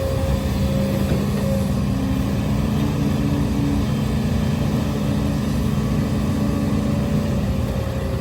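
Hidromek HMK230LC excavator's diesel engine running steadily at working revs, with a slight rise in pitch for a couple of seconds near the middle.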